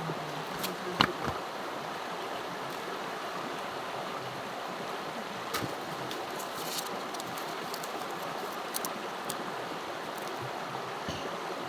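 Steady rush of flowing river water, with a few light clicks scattered through it.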